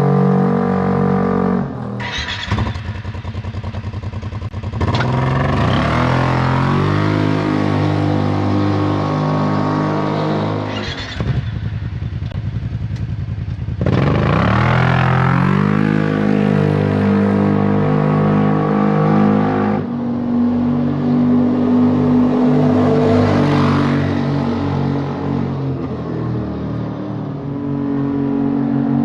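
Kawasaki Teryx side-by-side engine through an HMF Titan aftermarket exhaust, dropping back to a low, pulsing idle and then revving up and holding, several times over.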